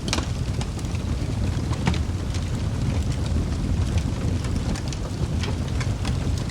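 Wood fire burning in a fireplace: a steady low rumble of flames with sharp crackles and pops from the logs about once a second.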